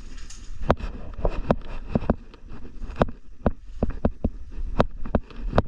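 An irregular series of sharp knocks and clicks, roughly two or three a second, over a low rumble.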